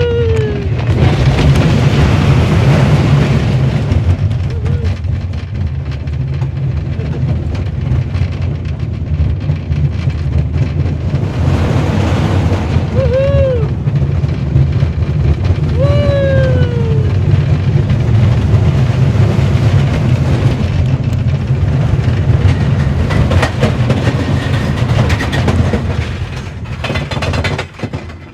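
Roller coaster ride heard from on board the train: a loud, steady rumble of the wheels on the track and rushing wind. Two short rising-and-falling squeals come partway through. The noise falls away sharply near the end as the train slows.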